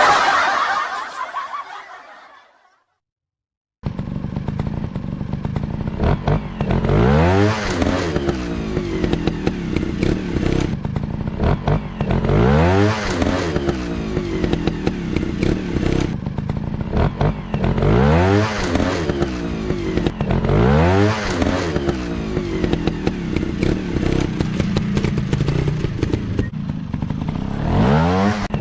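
Dirt bike engine revving up and down over and over, the throttle opened and let off every two to three seconds, after a short silence about four seconds in.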